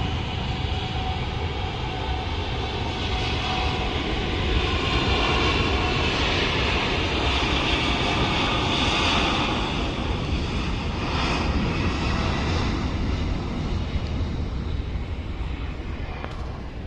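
Boeing 787 Dreamliner's jet engines at takeoff power as the airliner takes off: a steady roar that builds to its loudest about midway, then slowly fades as the plane moves away.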